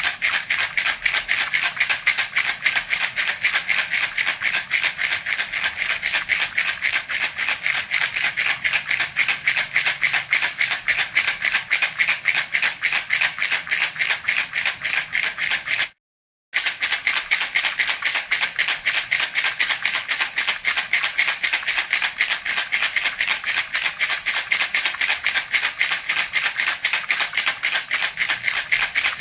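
Baby rattle (jhunjhuna) shaken in a fast, even rhythm, giving a steady bright rattling. The rattling cuts out completely for about half a second a little past the middle, then resumes.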